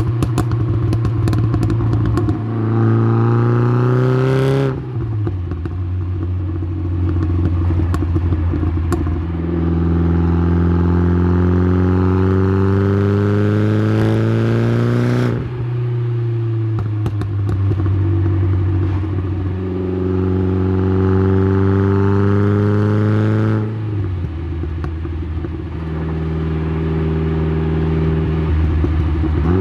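Tuned Saab 9-3's turbocharged B204 2.0-litre four-cylinder heard through its exhaust (TD04-19T turbo, Simons muffler), crackling and popping at first, then accelerating three times with the pitch climbing and dropping sharply when the throttle is lifted, and running steadily near the end.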